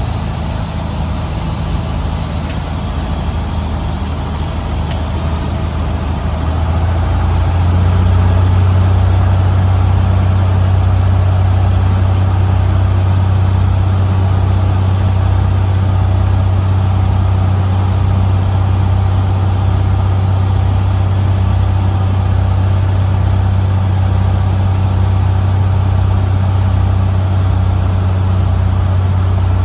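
Cessna 150's four-cylinder Continental O-200 engine and propeller droning steadily in flight. About seven seconds in, the drone gets louder and slightly higher in pitch.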